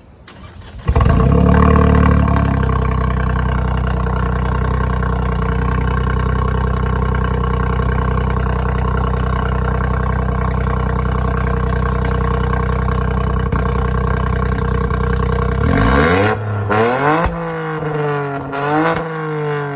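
Ford ST's engine through its twin exhaust, starting up about a second in with a brief surge of revs before settling into a steady idle. Near the end it is revved in a few quick blips, the pitch rising and falling with each.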